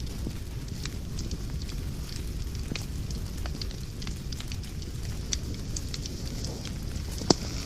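Wood fire burning in a fireplace, with a steady low rumble and irregular crackles and snaps, one sharp pop louder than the rest near the end.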